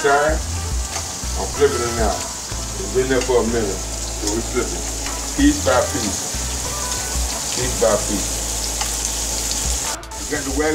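Cubes of Wagyu beef sizzling steadily as they fry in a pan, turned now and then with metal tongs. A voice-like pitched sound comes and goes over the sizzle in short snatches.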